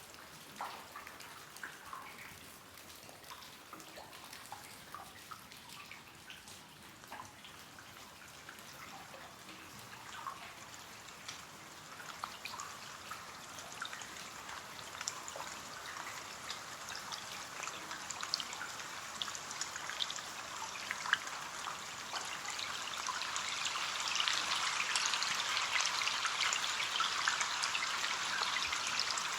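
Rain falling on a window pane: many small drop ticks over a soft hiss, getting heavier and louder over the second half.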